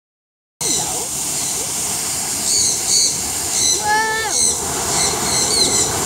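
Small aviary birds chirping in short, high, quick double notes, repeated several times over a steady background rush. About four seconds in comes one longer, lower call.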